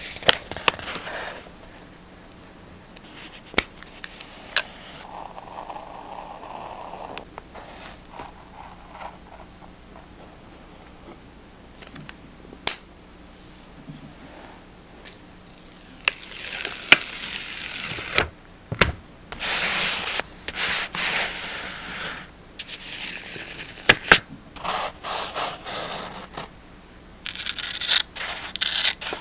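Paper and stationery being handled for journaling: paper rubbing, scraping and rustling, with a few sharp taps. Louder bouts of rustling come in the second half.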